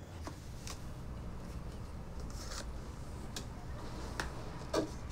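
Low steady room hum with scattered soft clicks and rustles, and a brief voice sound near the end.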